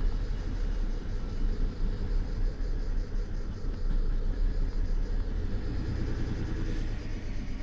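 BMW N53B30 3.0-litre straight-six idling roughly, a steady low rumble with an uneven pulse: a misfire on cylinder 6 (code P0306) that persists with new spark plugs and coils.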